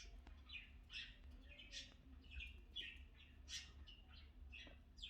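Cockatiel giving short, quiet chirps, about two a second.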